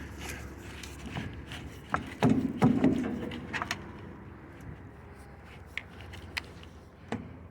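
Cargo unloader working a load of dirt and grass off a trailer: scattered knocks and clicks, with a burst of heavy thuds and scraping about two to three seconds in.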